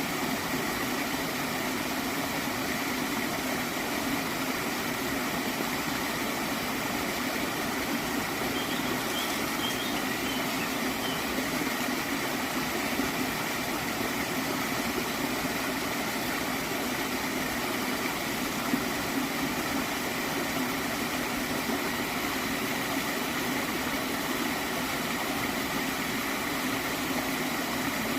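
Gently flowing stream of water, a continuous, even rush with no pauses or changes.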